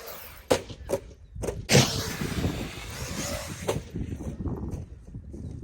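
Several hard knocks and thuds of a large RC car landing and tumbling, the loudest about two seconds in and another near the end, over outdoor noise.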